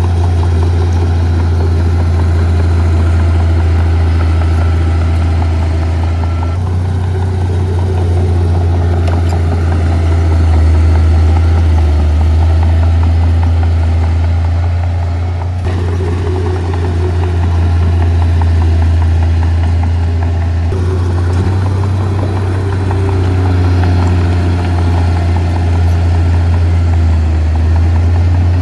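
Diesel engine of heavy earthmoving equipment running steadily, a deep low drone with engine overtones above it. The sound shifts abruptly three times.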